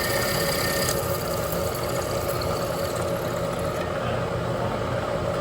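Machine tool running steadily while a 3/8 inch twist drill, lubricated with cutting fluid, cuts a hole through a steel rod; the higher cutting sound thins out about a second in.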